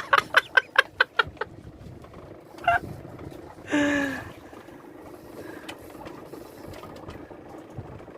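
A man laughing in a quick run of short bursts, then a brief call and a short falling vocal sound about four seconds in, over steady wind and sea noise.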